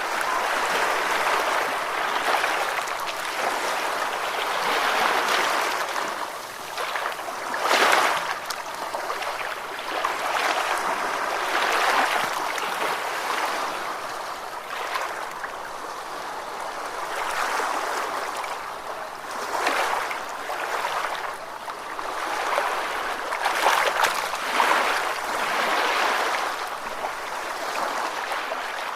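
Ocean surf: a continuous rush of breaking and washing waves that swells and eases, with a few louder surges.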